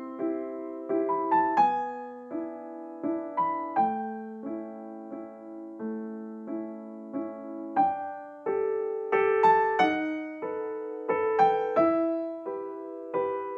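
Background music: gentle piano playing a slow melody over soft chords, note by note.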